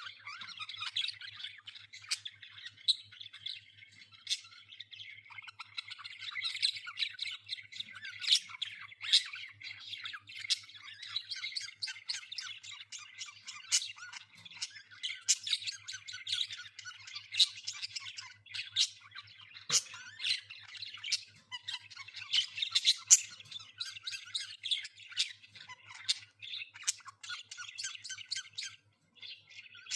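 Group of budgerigars chattering continuously, with frequent sharp squawks and chirps.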